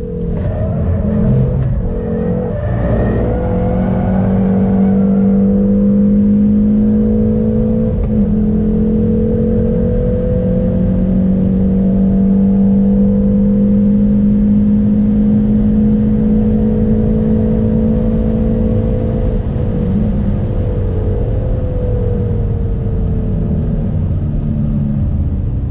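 Hyundai Veloster N's turbocharged four-cylinder engine pulling hard at high revs under full throttle, its pitch climbing slowly and steadily. There are a few brief breaks in the first two seconds and a short one about eight seconds in, and the pitch falls away near the end as the throttle eases.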